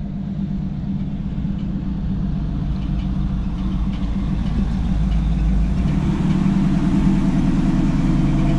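A vehicle's engine running steadily at a low, even speed, growing gradually louder.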